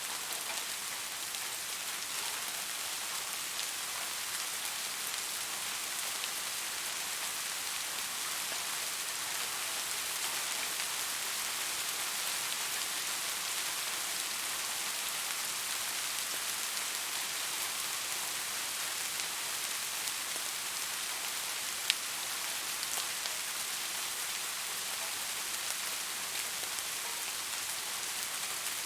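Steady rain falling, a dense even hiss with fine pattering ticks of drops. One sharper, louder tick about two-thirds of the way through.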